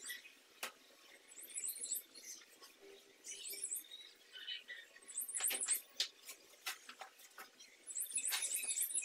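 A small bird chirping in quick runs of high, sharp notes, three runs in all with the longest near the end, amid scattered light clicks.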